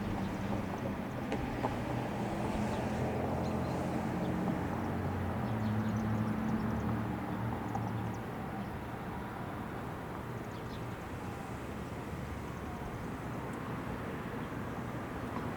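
Steady low mechanical hum over a rumbling noise, a little louder in the first half and easing about eight seconds in.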